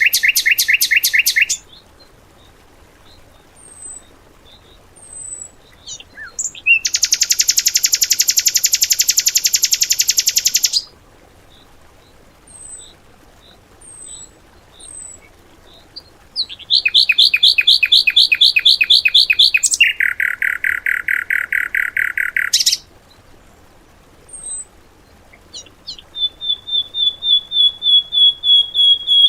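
Songbird song of the rapid-fire 'tembakan' kind used as fill-in training material for caged birds: several loud, very fast trills and buzzy rattling phrases, each a few seconds long and at a different pitch, separated by pauses with soft, high chirps. A high, fast, even trill starts about three-quarters of the way through.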